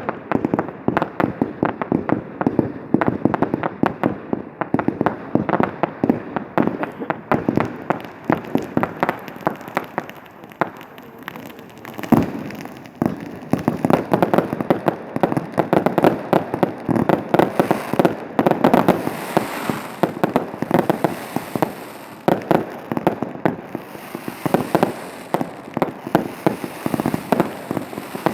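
Fireworks display: a dense, rapid barrage of bangs and crackles, thinning briefly about ten seconds in before a single louder bang, then building up dense again.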